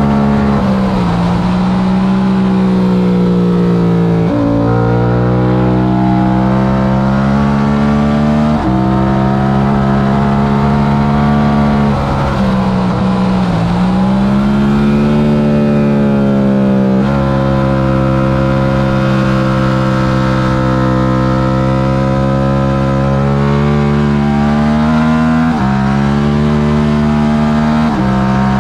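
Yamaha R7's 689 cc parallel-twin engine at race speed, rising and falling in pitch as it is ridden hard, with several abrupt pitch steps as the gears change and smooth dips where the revs come down.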